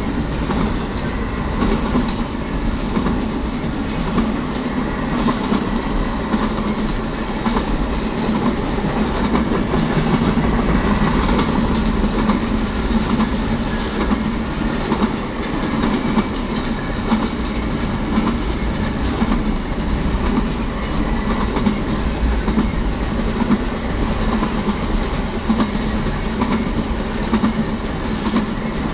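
Double-stack container freight train rolling past: a steady rumble of steel wheels on the rails.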